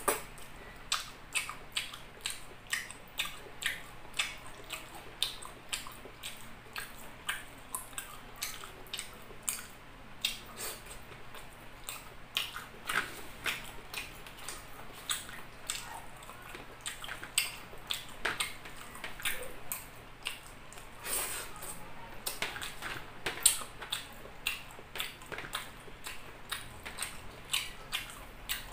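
Close-up wet chewing of soft chicken liver adobo, a steady run of short smacks and clicks from lips and mouth, several a second.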